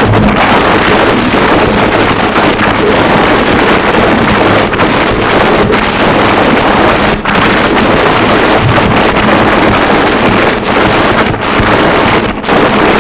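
Harsh noise wall: a loud, dense, unbroken wall of distorted static across the whole range, dipping for a split second a few times in the second half.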